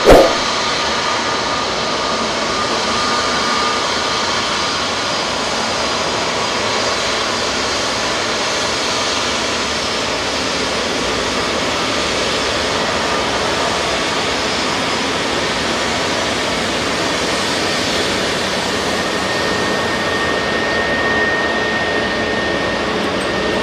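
Jet airliner engines running, a steady even noise with faint whining tones, held at a constant level. A short sharp click comes right at the start where the clip cuts in, and a faint high whine joins near the end.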